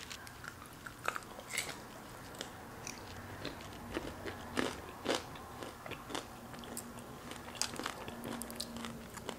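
A person biting and chewing a crispy fried crab rangoon: irregular crunches of the fried wonton shell and small mouth clicks.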